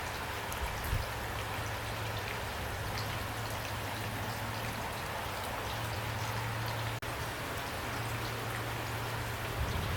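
Steady rainfall: an even hiss with individual drops ticking here and there, over a low hum that comes and goes. The sound cuts out for a split second about seven seconds in.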